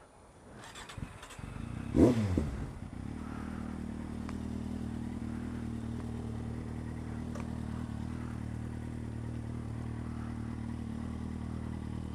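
Motorcycle engine starting: a few clicks, then it fires about two seconds in with a brief rev whose pitch drops back, and settles into a steady idle.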